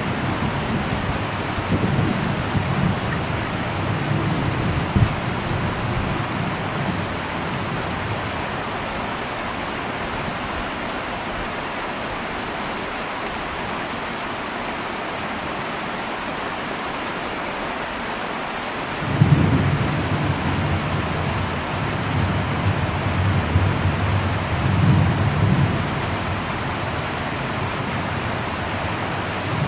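Heavy rain drumming steadily on an old metal roof, with thunder. Low thunder rumbles at the start and fades away, then a new peal breaks in suddenly about two-thirds of the way through and rumbles on for several seconds.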